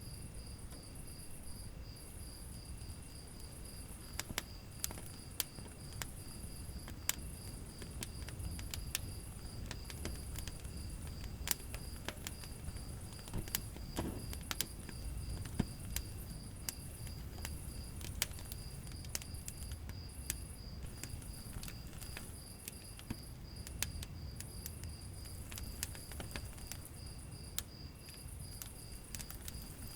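A wood fire in a fireplace crackling, with sharp pops every second or so over a low rumble of burning. A cricket's steady high-pitched trill runs underneath.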